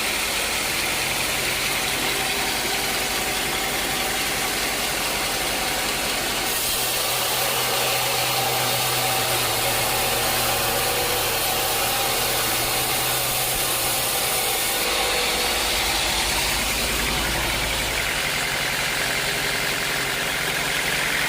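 Sawmill machinery running: a steady mechanical hum with a dense noisy hiss, shifting in tone a few times.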